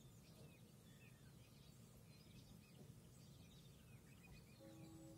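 Faint birdsong: several birds chirping and trilling over a steady low background rumble. Near the end a steady held tone comes in.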